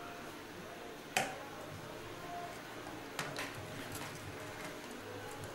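A few light clicks and taps from handling the amplifier board and the speaker wire, one about a second in and two close together about three seconds in, over a faint hiss.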